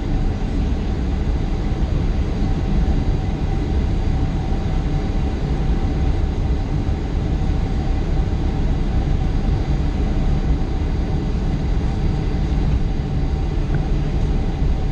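Steady rumble of a Boeing 737-800's engines and airflow heard from inside the passenger cabin, with a constant whine running through it.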